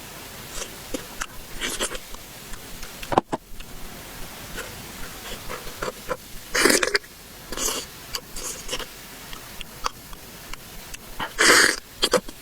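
Close-miked mouth sounds of eating: wet chewing clicks and smacks. There is a sharp click about three seconds in, and three short breathy bursts stand out, near the middle, a second later, and near the end.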